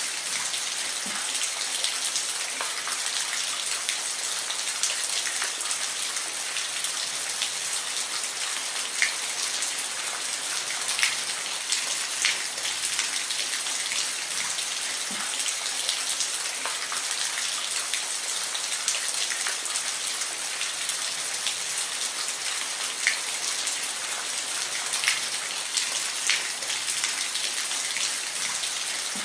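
Steady rain falling, a constant high hiss with scattered sharper drops ticking on a surface.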